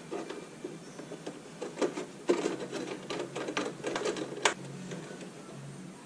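Quick, irregular small clicks and rattles of hands working at the plow headlight's wiring connectors and bulb socket, busiest in the middle and ending with one sharp click about four and a half seconds in.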